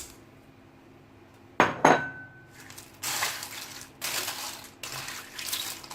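Cookware sounds in a pot. About a second and a half in there are two sharp metal clinks with a short ring, then several rough scraping, rustling strokes as food is handled and moved in the pot.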